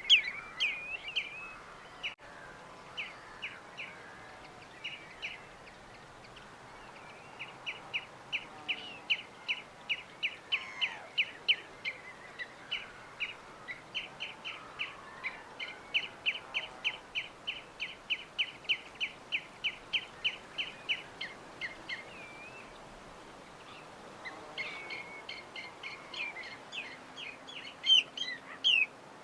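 Birds chirping in long runs of quick, high chirps, about three a second, with a pause of a couple of seconds near the end, over a steady soft hiss.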